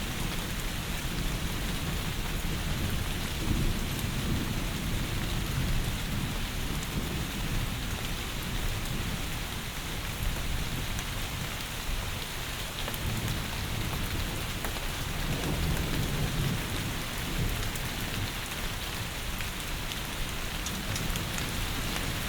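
Heavy rain falling steadily, with low rumbles of thunder that swell a few seconds in and again about two thirds of the way through.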